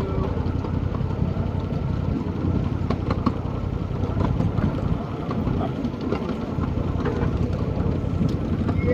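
An engine idling steadily, with a fast, even pulsing beat.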